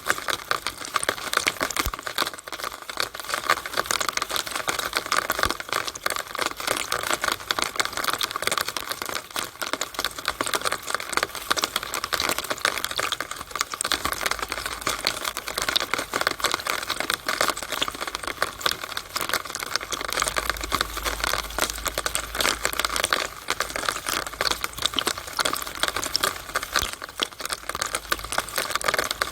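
Rainwater running down a downspout on a rainy day: a dense, steady patter of fast fine drips and splashes.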